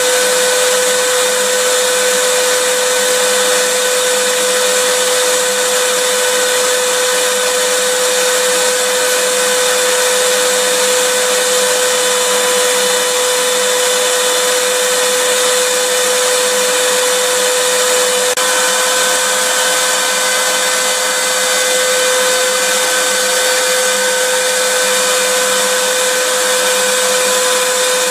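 Vacuum cleaner running steadily: a constant rushing noise with a steady whine over it, which shifts slightly about two-thirds of the way through.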